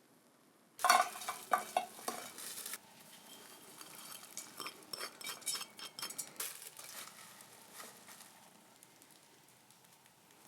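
Cooking at a pan: a sudden noisy burst with clattering about a second in that lasts about two seconds, followed by lighter, scattered clinks and stirring of a utensil against cookware that die away near the end.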